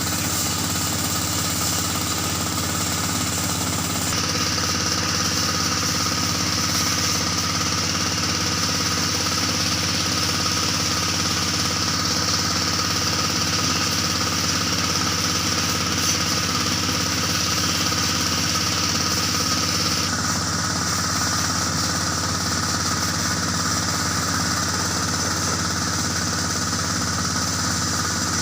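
Kubota L3608 tractor's three-cylinder diesel engine running steadily at an even speed.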